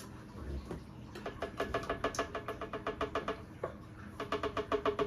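A spoon rapidly tapping against a measuring cup, about six ringing knocks a second in two runs, knocking the yogurt out of the cup.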